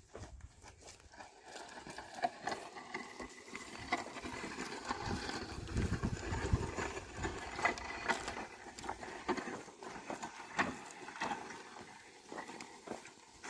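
Oxen pulling a plough through a field: scattered hoof steps, knocks and scuffs over a low rustle, with a busier stretch around the middle.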